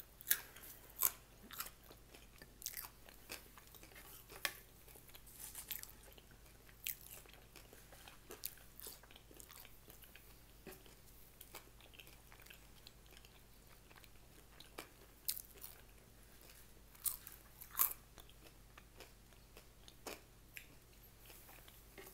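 Close-miked chewing and biting of food: wet mouth sounds broken by irregular, sharp crunches and clicks, thickest at the start and again about three quarters of the way through.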